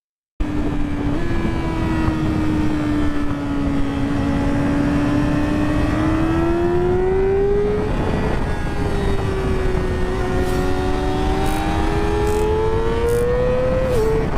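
Sport motorcycle engine running at speed under throttle, its pitch climbing slowly, dropping about eight seconds in as at a gear change, then climbing again, with rushing noise underneath.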